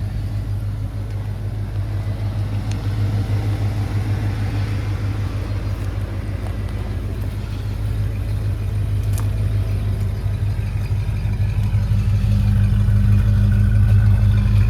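1989 Ford Bronco's 5.8-litre V8 idling steadily with an even low pulse, growing louder over the last few seconds.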